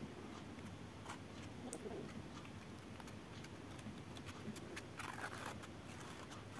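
Faint scrapes and light ticks of a hand tool pressing stiff tile adhesive into the joints, with one longer scrape about five seconds in.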